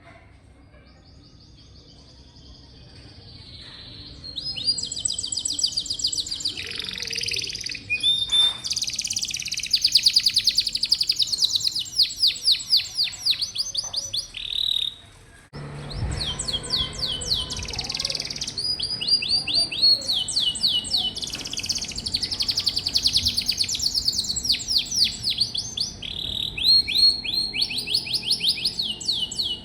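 Domestic canary singing long runs of fast, rolling trills, coming in faintly and building about four seconds in. The song breaks off briefly about halfway, then carries on.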